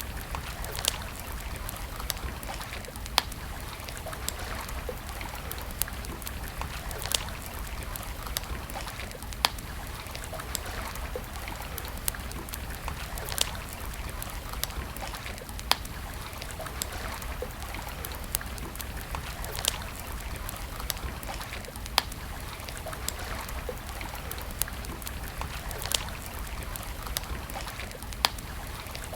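Campfire crackling: irregular sharp pops, the loudest every second or two, over a steady hiss and a low rumble.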